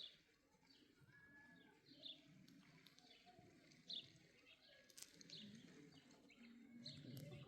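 Faint outdoor birdsong: a few short, high chirps and a brief whistle, scattered over a quiet rural background.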